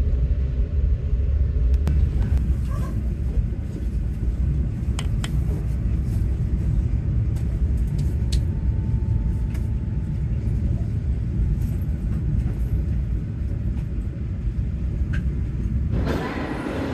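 Steady low rumble of a moving road vehicle, with a few faint clicks and knocks.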